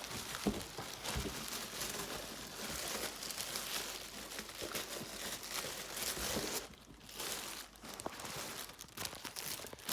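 Packaging crinkling and rustling by hand in an uneven stream of small crackles, dropping briefly about seven seconds in, as new boots are unpacked from their box.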